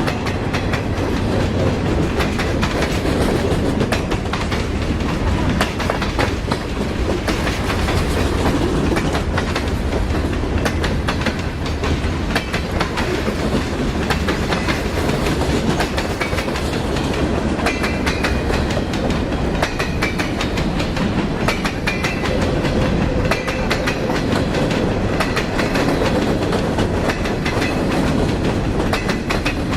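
Railroad cars rolling steadily past close by, their wheels clacking over rail joints in a continuous stream of clicks. A faint high wheel squeal comes through about two-thirds of the way in.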